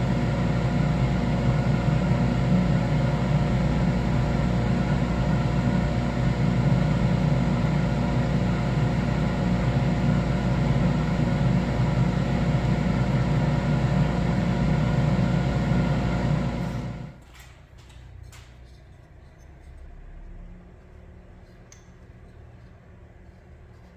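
Electric workshop machine running steadily with a hum of several fixed tones, switched off about 17 seconds in and stopping quickly, followed by faint handling clicks.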